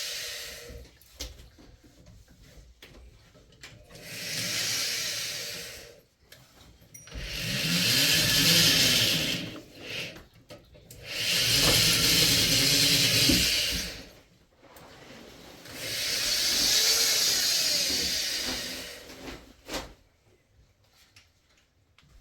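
Electric drill run in four bursts of two to three seconds each, its motor speeding up and winding down each time.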